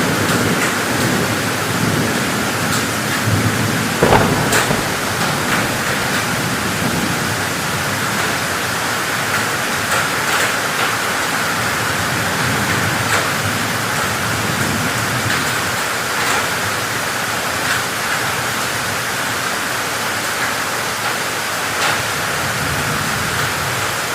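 Heavy rain pouring steadily, with the tail of a low thunder rumble dying away in the first second and a single sharp crack about four seconds in.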